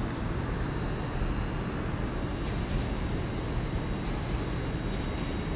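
Five-coach Class 800 IET train running slowly into a station platform: a steady, even rumble with no distinct knocks or horn.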